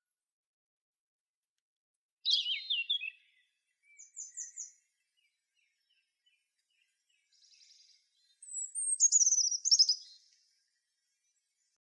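Birds singing: a few short, high-pitched song phrases with silence between them. The longest and loudest phrase comes near the end.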